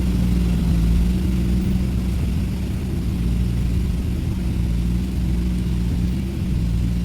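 A vehicle engine running steadily, a low, even drone with a steady hum.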